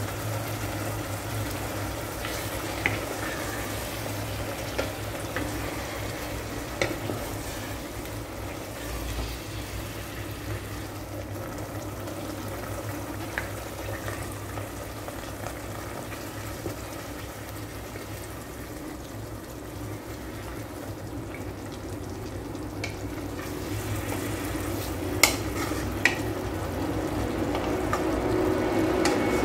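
Chicken livers sizzling in their sauce in an electric rice cooker's pot, with a few sharp clicks along the way. Near the end a wooden spatula stirs them and the sound gets louder.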